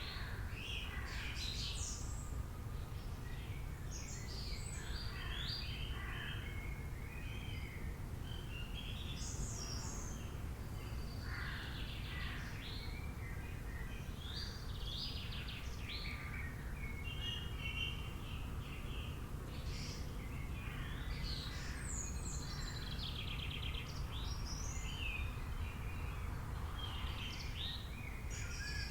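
A chorus of many birds calling over one another, short chirps, trills and harsher calls overlapping, over a steady low rumble.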